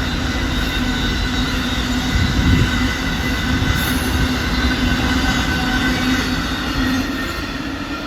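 Amtrak Auto Train cars rolling past at close range: a steady rumble of wheels on rail with high, steady squealing tones from the wheels. It eases off a little near the end.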